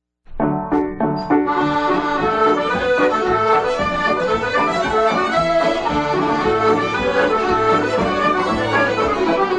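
Irish traditional music led by accordion, starting suddenly about a quarter second in after a brief silence.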